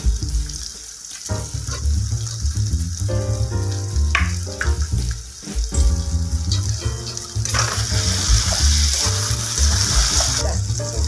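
Sliced onions and chopped tomatoes sizzling in hot oil in a metal wok, stirred with a steel spatula. The sizzle grows louder a little past the middle.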